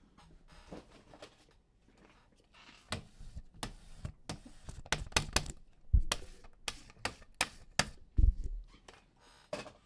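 Trading cards and their packaging being handled on a tabletop: a run of sharp clicks and taps with some rustling, and two dull thumps about six and eight seconds in.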